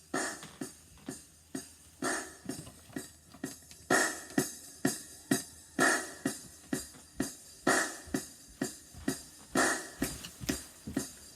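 A drum beat playing on its own: drum kit with hi-hat and cymbal in a steady pattern, a heavier accent about every two seconds.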